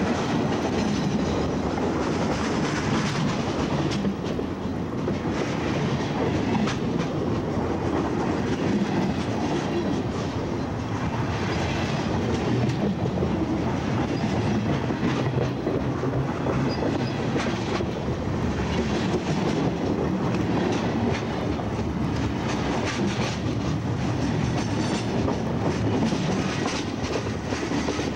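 Freight cars rolling directly over the microphone: steel wheels running steadily on the rails just overhead, with repeated sharp clicks as wheelsets pass.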